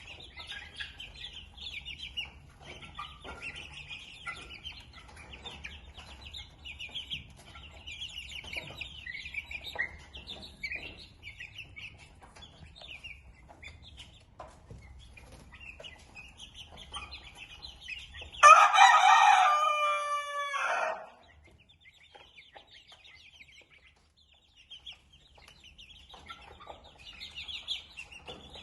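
Parrot-beak long-tail Indian game chickens clucking and cheeping. A rooster crows once, loud, about two-thirds of the way through, for about two and a half seconds.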